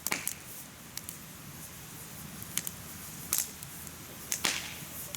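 Firewood burning in a mesh fire pit, crackling with sharp, irregular pops over a steady hiss of flame; the loudest pops come just after the start and at about three and a half and four and a half seconds in.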